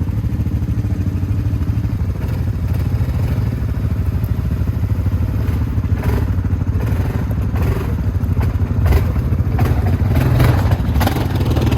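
ATV engine running steadily, with scattered clatter and knocks from about halfway in that grow more frequent near the end.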